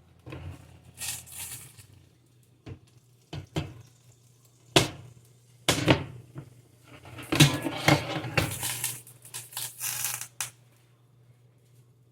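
Kitchen clatter: pots, dishes and utensils being handled, with several sharp knocks and clinks and a busier stretch of scraping and clattering in the second half, over a steady low hum.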